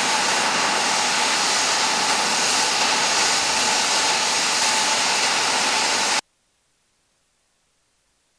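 Airliner jet engine running steadily: a loud, even rush with a faint whine. It stops abruptly about six seconds in, leaving near silence.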